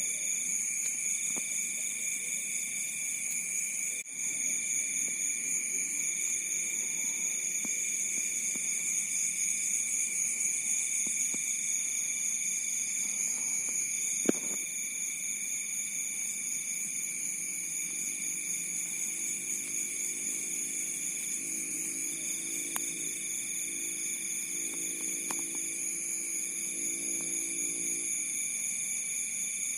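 Crickets chorusing at night: several steady, high, unbroken trills, with one cricket trilling in bouts of about two seconds separated by short pauses. A single sharp click sounds about halfway through.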